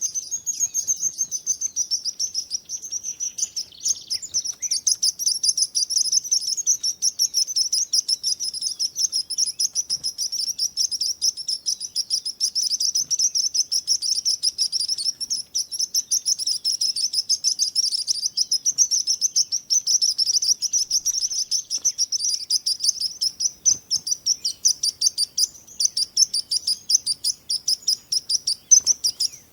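Small songbirds chirping in a rapid, continuous high-pitched chatter, many chirps a second.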